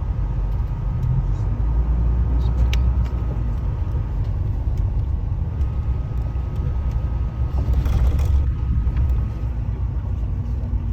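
Steady low rumble of a moving bus, engine and road noise, with a few faint clicks and rattles on top.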